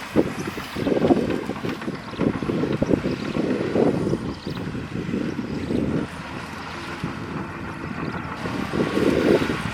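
Diesel engine of heavy earthmoving machinery running under load. It eases off about six seconds in and picks up again near the end.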